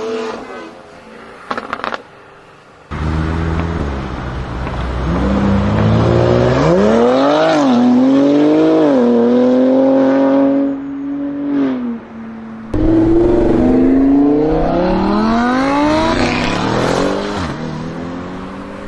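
High-performance car engine accelerating hard: its pitch climbs and drops back at each gear change, holds steady for a couple of seconds, then after a sudden break climbs again in another hard pull.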